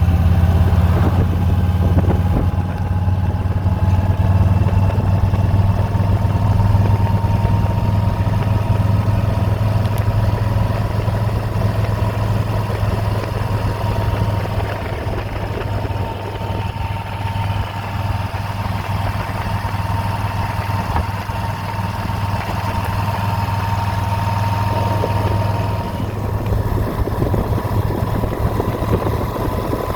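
Motorcycle riding at a steady cruising speed, its engine giving a steady low drone that holds even for the whole stretch.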